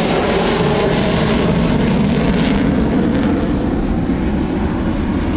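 Avro Vulcan's four Rolls-Royce Olympus 202 jet engines: loud, steady jet noise with a deep low rumble as the bomber flies past.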